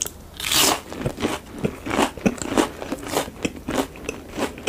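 Biting into and chewing a breaded cheese shrimp ring: a loud crunch on the first bite about half a second in, then steady crunchy chewing at about three chews a second.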